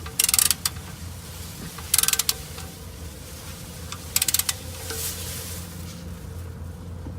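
Ratchet wrench clicking in three short bursts of rapid ticks, the pawl ratcheting on the back-strokes as the oil drain plug is tightened.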